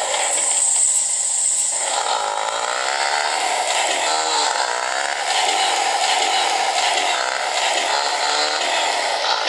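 Motorcycle engine running on the move, its pitch rising and falling several times, under a steady rush of wind and road noise.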